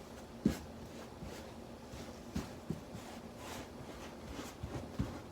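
Hands handling wet plaster cloth on a model railroad base: a few soft taps and knocks with faint rustling, the sharpest about half a second in.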